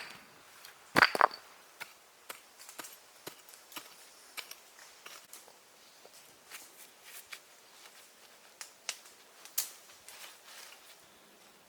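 A cluster of two or three sharp cracking knocks about a second in, then scattered light snaps and clicks, like wood being broken and handled.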